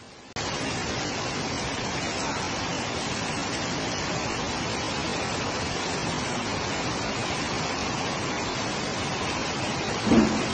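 Heavy rain pouring down as a steady, even hiss. A brief pitched sound rises above it just before the end.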